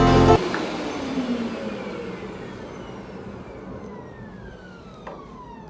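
Hoover Power Scrub Elite carpet cleaner's motor spinning down after being switched off: a whir that falls slowly in pitch and fades away. Background music cuts off just after the start.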